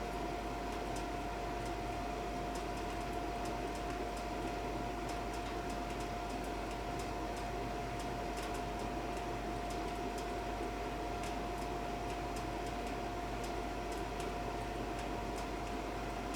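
Monitor 422 kerosene heater running in its start-up phase: a steady, even whine from its running motor, with faint irregular ticking over it.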